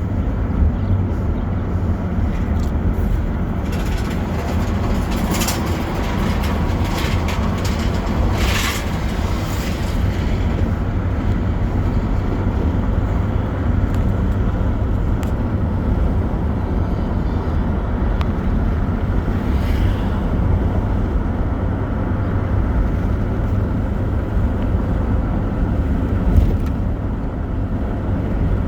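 Steady low rumble of a vehicle travelling along a road: road and wind noise, with a few brief hissing sounds in the first ten seconds.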